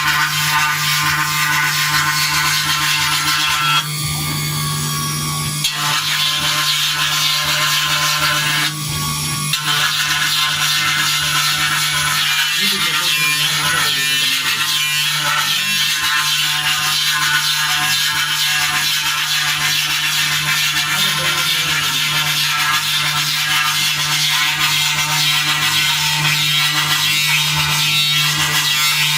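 CNC engraving machine's spindle running and cutting into a silver plate: a steady high hiss over a constant low hum, briefly changing twice in the first ten seconds.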